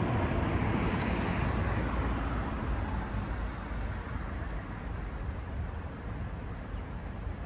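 Wind rumbling on the microphone while a road vehicle passes and its tyre noise fades away over the first few seconds.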